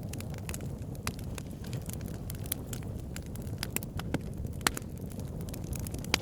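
Wood campfire crackling, with irregular sharp pops over a steady low rumble; two pops stand out, one about two-thirds of the way through and one near the end.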